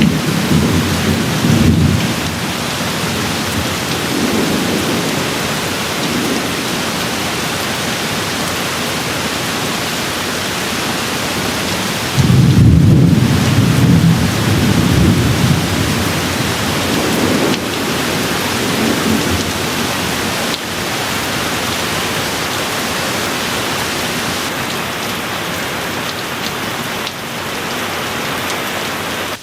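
Steady heavy rain with rolling thunder: a low rumble at the start dies away within about two seconds, and a louder rumble breaks in about 12 seconds in and fades over several seconds.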